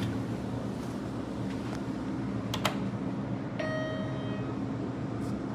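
1996 U.S. Elevator hydraulic elevator running with a steady low hum heard inside the car. A sharp click comes about two and a half seconds in, and a single chime tone rings briefly about a second later.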